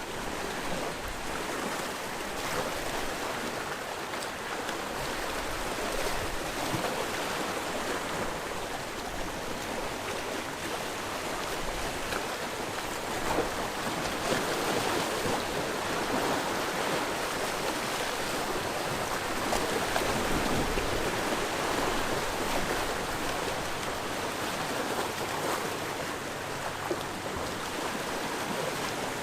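Sea waves washing onto the shore: a continuous wash of surf that swells louder a few times, most strongly around the middle.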